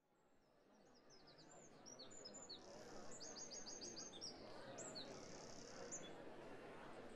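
Small birds chirping and singing, with a quick run of about six repeated high notes a few seconds in, over a faint steady background noise. The sound fades up from silence over the first couple of seconds.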